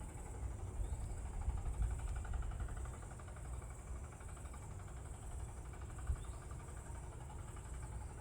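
Insects chirring steadily in a high, even drone over a low rumble, with a fast pulsing trill in the middle range during the first half.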